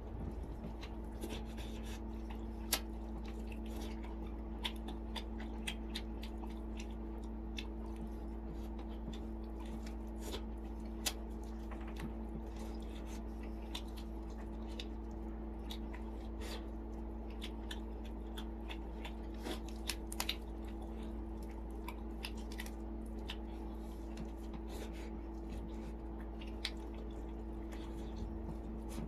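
A person eating steamed chicken by hand, close to the microphone: chewing, with many short wet clicks and smacks scattered throughout. A steady low hum runs underneath.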